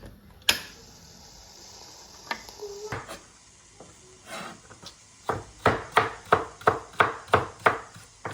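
Kitchen knife chopping on a wooden cutting board: a sharp click and a few scattered knocks, then a steady run of about eleven quick chops, about four a second.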